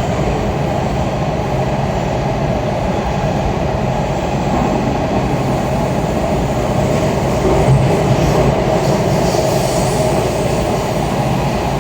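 Steady running noise of a Washington Metro Kawasaki 7000-series railcar heard from inside the car as it travels, wheels on rails and running gear, getting a little louder partway through.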